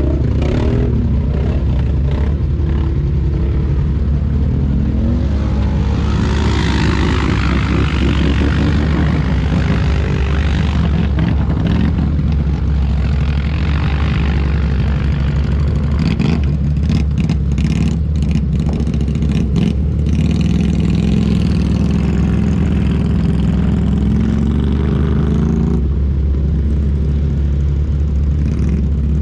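ATV engine running as it is ridden, a steady low drone with the revs rising and falling. It has stretches of rushing noise and a run of clatters about two-thirds of the way through.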